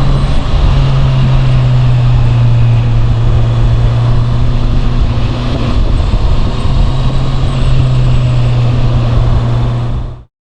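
Honda CB650R's inline-four engine through its standard exhaust, running steadily at an even engine speed with no revving. The sound cuts off suddenly near the end.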